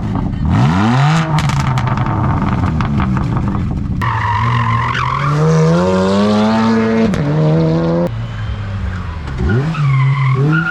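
High-performance engines revving and accelerating, with tire squeal. The sound changes abruptly twice, from one clip to the next.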